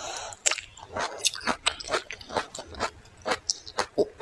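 Close-miked chewing and sucking on soft, wet thawed frozen pear, a quick irregular run of short wet smacks and clicks from the mouth.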